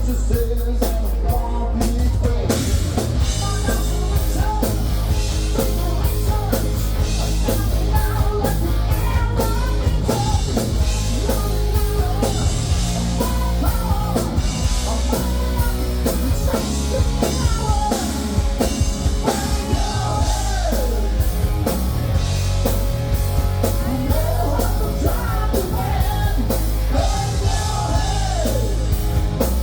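Rock band playing live with drum kit, distorted guitar and bass, and a singer belting and yelling the vocal line.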